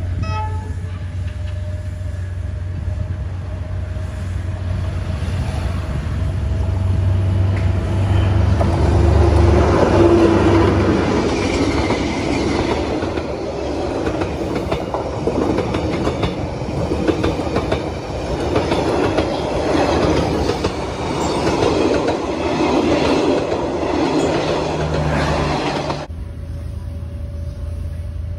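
Vietnam Railways D19E diesel-electric locomotive passing close by with a steady low engine drone, followed by its passenger coaches rolling past with a rhythmic clickety-clack of wheels over the rail joints. Near the end the sound cuts suddenly to a quieter steady hum.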